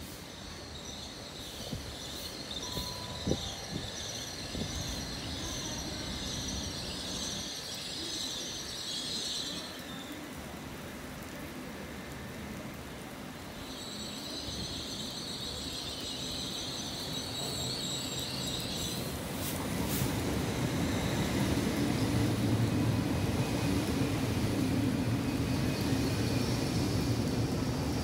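Hitachi Class 800/802 IET train running in along the platform, its low rumble growing louder from about two-thirds of the way through. Earlier, a high-pitched whine comes and goes twice.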